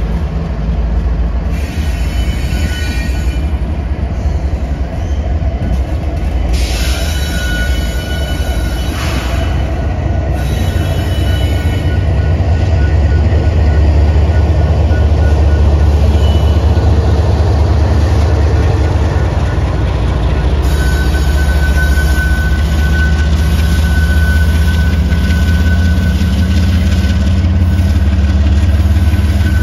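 Freight train rolling past, a steady heavy rumble of wheels on rail, with a high-pitched wheel squeal that comes and goes and holds longest near the end.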